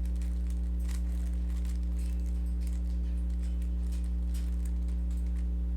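Steady low electrical hum, with faint, irregular quick clicks from a Rubik's cube being turned.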